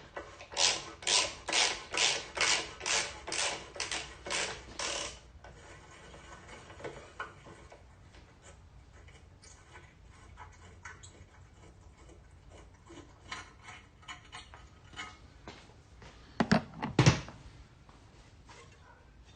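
Hand tools working bolts loose on an engine being dismantled. About a dozen even metallic clicks come at two to three a second, then scattered lighter clicks and taps. Near the end there are two loud metal knocks.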